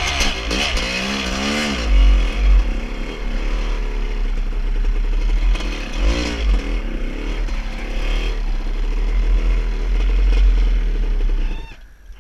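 A motor vehicle engine revving up and down, its pitch rising and falling several times over a heavy low rumble, then stopping abruptly near the end.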